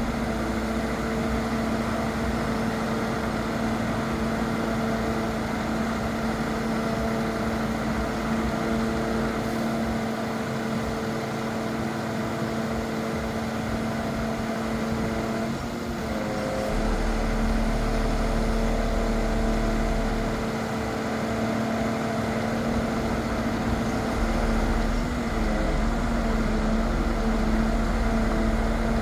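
Scania R500 truck, which carries an HMF 2120K5 loader crane, running steadily with a constant pitched hum. The pitch wavers briefly about 16 and again about 25 seconds in, and a deep rumble swells and fades a few times.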